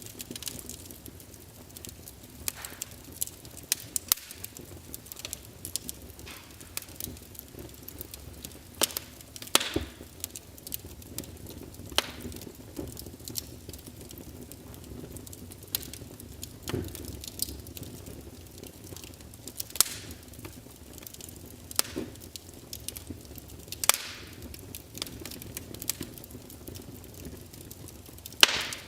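Fireplace wood fire crackling: irregular sharp pops and snaps over a low steady hiss, with a few louder pops scattered through.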